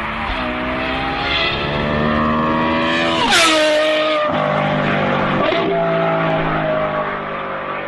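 Ferrari 812 Superfast's V12 engine pulling hard, its pitch climbing for about three seconds. The pitch drops sharply a little after three seconds in, dips briefly again around five and a half seconds, then holds and slowly falls.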